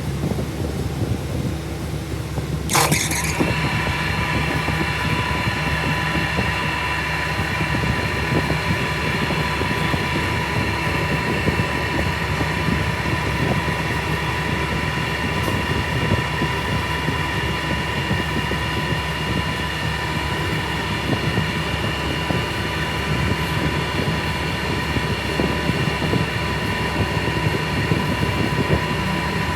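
A workshop machine running steadily; about three seconds in it starts a high, steady whine of several fixed tones over a noisy rumble, which continues unchanged.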